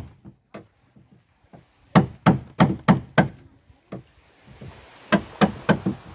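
Hammer blows on wood in quick runs, about three strikes a second: a run of about five, a pause of roughly two seconds, then about four more.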